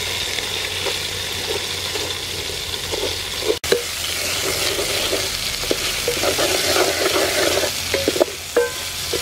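Garlic, lemongrass and tom yum paste sizzling in hot oil in a metal pot, with a steady hiss, while a wooden ladle stirs and scrapes across the pot bottom in irregular knocks.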